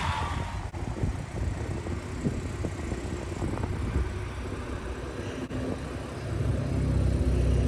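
BMW 430i convertible's turbocharged four-cylinder engine running, getting clearly louder about six seconds in.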